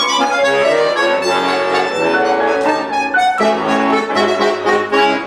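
Accordion with piano accompaniment playing the closing bars of a waltz, with many notes sounding together at an even level.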